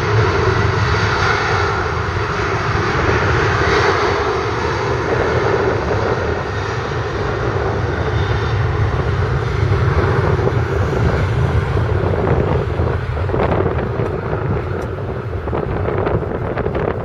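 Boeing 737-800's twin CFM56 turbofan jet engines at take-off power, a steady loud jet roar with deep rumble. Short knocks of wind on the microphone come in over the last few seconds.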